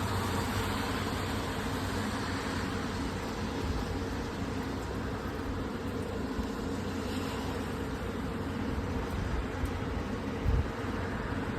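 Steady outdoor background noise with a low mechanical hum under it, and a brief low bump about ten and a half seconds in.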